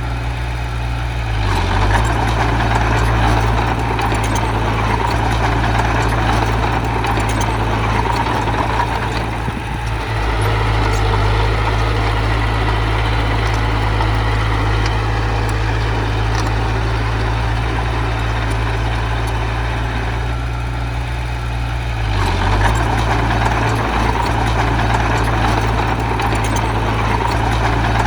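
Diesel engine of a heavy earthmoving machine running steadily, working harder about two seconds in and again around twenty-two seconds, with a brief easing near the middle.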